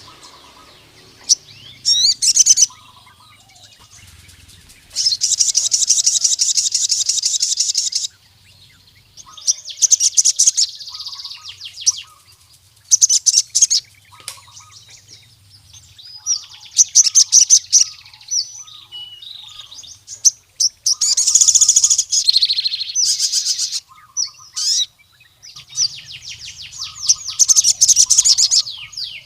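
Male sogon (crimson sunbird) singing in the wild: repeated bursts of rapid, high-pitched trilling chirps, one trill held for about three seconds. It is the song a male gives when calling out a rival male.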